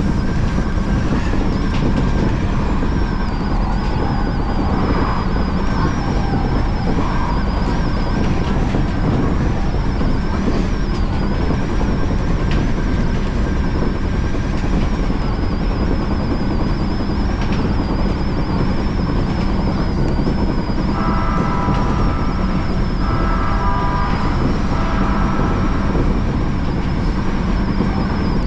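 Odakyu Line electric commuter train running along the track, heard from on board: a steady rumble of wheels on rails with a faint wavering high whine. A ringing passes briefly in the last third.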